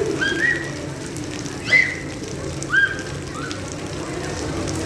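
Steady rain falling. About five short, high-pitched calls cut through it in the first three and a half seconds, the loudest near the middle.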